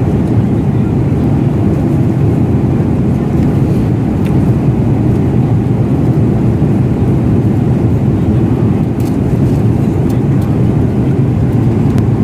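Airliner cabin noise in cruise: a steady low drone of jet engines and airflow, with a few faint light clicks.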